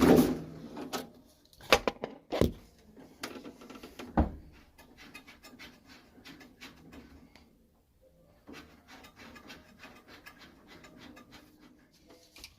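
Hands-on work on a boiler: a few loud knocks in the first four seconds, then many light clicks and taps of tools and fittings over a faint steady hum.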